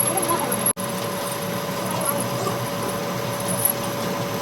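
Steady workshop machine noise with a constant whine, cutting out for an instant under a second in.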